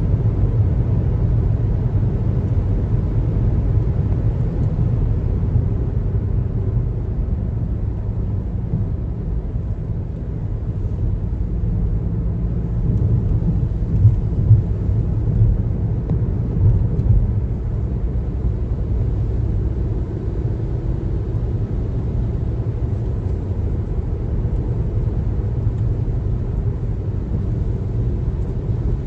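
Car driving on the highway: a steady low rumble of road and tyre noise, with a few brief louder bumps around the middle.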